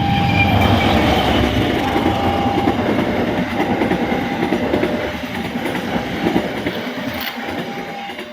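Long-distance passenger train rolling fast over a level crossing, wheels clattering over the rail joints in a loud rumble that eases toward the end. Under it the crossing's warning signal keeps sounding, a two-tone alarm alternating between a lower and a higher note.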